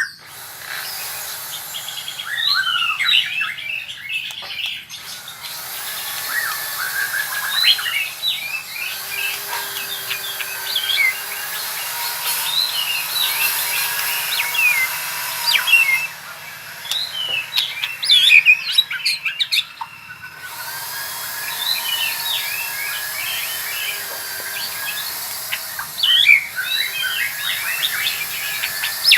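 White-rumped shama (murai batu) singing a fast run of varied chirps, whistles and trills, broken by a few short pauses: a bird practising its rolling song.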